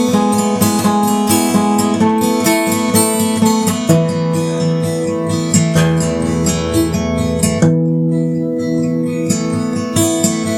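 Instrumental music on acoustic guitar, with strummed and plucked chords that change every second or two.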